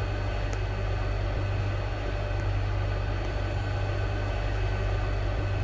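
Steady low hum inside an automated airport people-mover train car.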